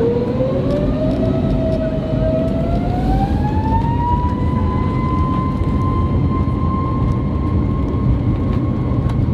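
Airbus A321neo's jet engines spooling up, heard inside the cabin over a loud steady rumble. A whine rises in pitch for about four seconds, then holds steady as takeoff thrust is set.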